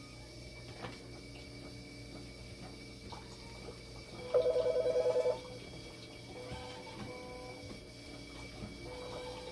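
Hemodialysis machine sounding an alarm: a quick run of about ten rapid beeps lasting about a second, midway through, then a fainter steady tone, over the steady hum of the machine running.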